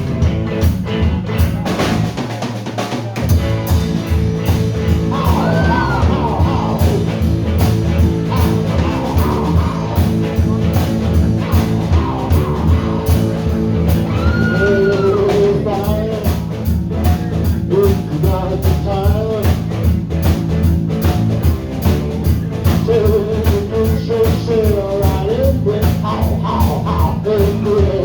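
Live rock band playing: a steady drum-kit beat under bass and electric guitar, with a lead melody line bending in pitch above it.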